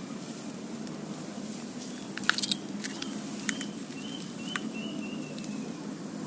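A few sharp clicks a little over two seconds in, then a zebra dove (perkutut) giving a run of about five short, high cooing notes over a steady low background rumble.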